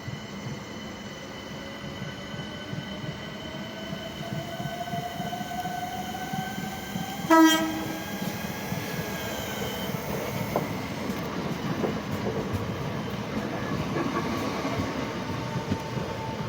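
Electric train pulling through the station, its motors whining with a pitch that rises steadily as it gathers speed. A short horn blast about seven seconds in is the loudest sound, followed by growing wheel-on-rail rumble.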